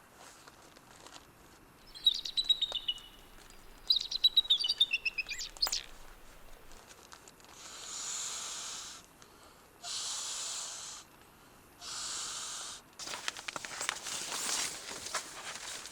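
A songbird sings two short, chirping phrases that fall in pitch. Then come three even hissing strokes, each about a second long and about two seconds apart, followed by a run of rustling, crackling clicks.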